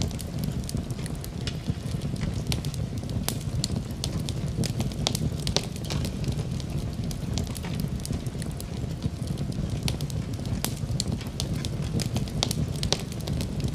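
Wood fire burning, with a steady low rumble of flames and frequent sharp crackles and pops.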